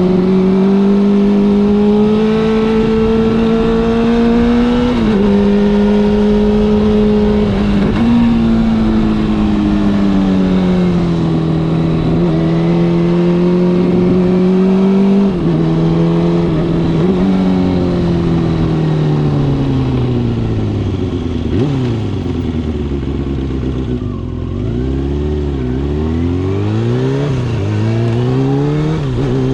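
Kawasaki Balius II's 250 cc inline-four engine breathing through an RPM New 4-into-2-into-1 exhaust while riding. The engine pitch holds and drops in steps several times as the gears change, then falls steadily as the bike slows, and rises and falls several times near the end.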